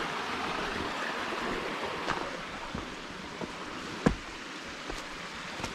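Steady rush of flowing water, with a few scattered clicks and one sharp knock about four seconds in.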